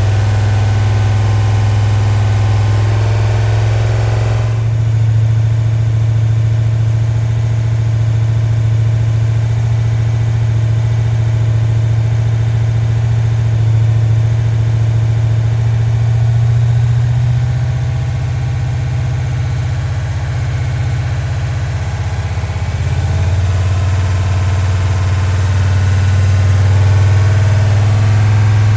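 Freshly rebuilt Mopar 318 small-block V8 with a roller cam running steadily in its first minutes after the first start-up. The tone changes slightly about four and a half seconds in, and the engine holds an even, smooth note otherwise.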